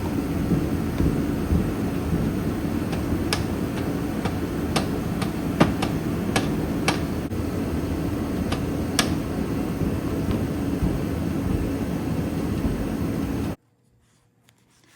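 Steady road and engine noise inside a moving car, with a low hum and a few sharp clicks and knocks. It cuts off suddenly near the end.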